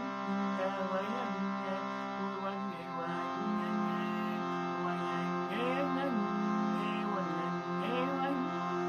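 Improvised wordless singing over a steady drone of held tones, the voice sliding up and down in short glides.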